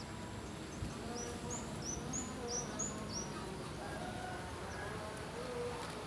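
A bird calling: a quick run of about seven short, high notes, each rising sharply, between about one and three seconds in, over a steady background hiss.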